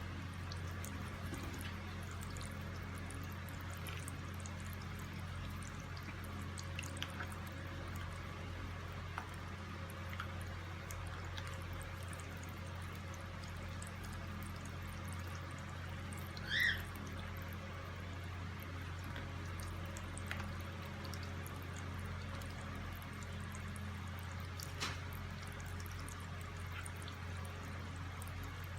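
Water pouring steadily with scattered small splashes and drips as a cockatiel bathes. About two-thirds of the way through, the cockatiel gives one short rising chirp.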